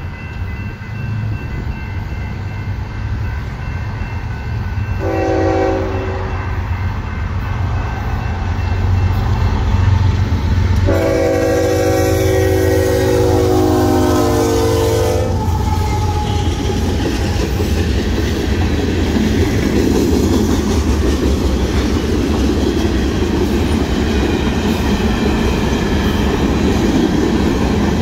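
Union Pacific diesel freight locomotive at a grade crossing: a short horn blast about five seconds in, then a long horn chord from about eleven to fifteen seconds that drops in pitch near its end as the locomotive passes, over a steady engine rumble. After that the freight cars roll by with a steady wheel clatter.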